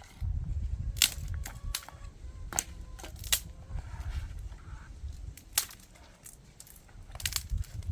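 Wood fire crackling, with sharp, irregular pops over a low rumble.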